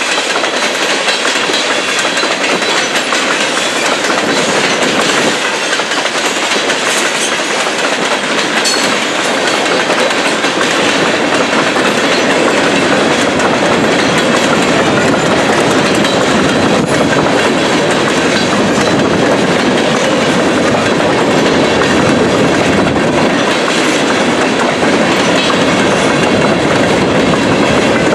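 Freight train of empty covered grain hoppers rolling past, its wheels clicking over the rail joints; the sound grows a little louder about halfway through.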